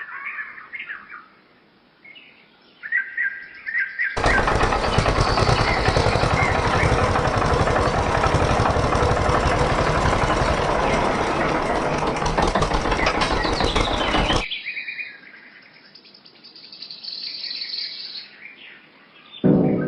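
Birds chirping, then a small motor runs steadily for about ten seconds, starting and stopping abruptly, before the chirping resumes.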